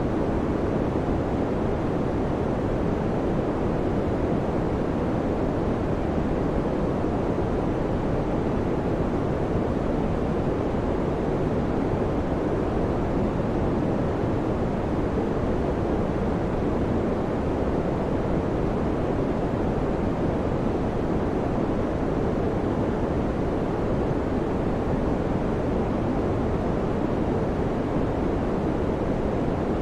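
Electric fan running with a steady, even whoosh of air, deep rather than hissy, without any change in level or pitch.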